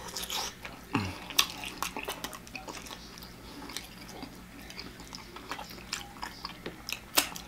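Close-up chewing of breaded fried meat: wet mouth clicks and smacks, and a short low hum that falls in pitch about a second in.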